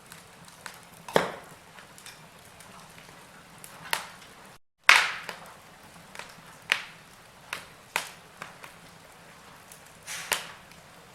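Wood fire crackling: logs burning with a low steady hiss and sharp, irregular pops, about six loud ones, the loudest just after a momentary cut to silence near the middle.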